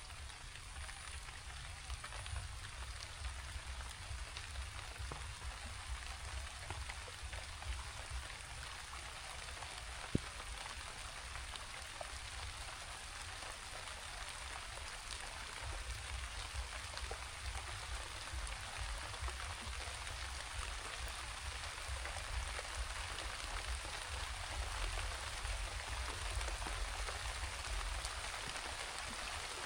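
Steady rain falling, with a low rumble underneath and a single sharp click about ten seconds in.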